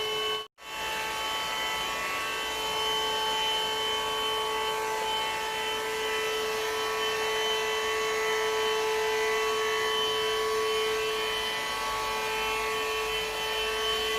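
Vacuum cleaner running steadily, its motor giving a constant whine over a rushing noise, with a brief cut-out about half a second in.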